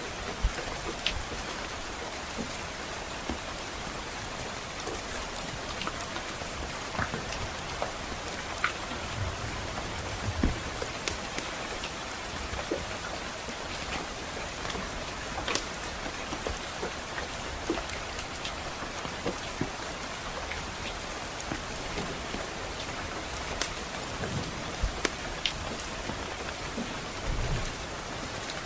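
Steady rain falling on a surface, with scattered sharp pops and crackles from a wood fire throughout. There are brief low rumbles about nine to ten seconds in and again near the end.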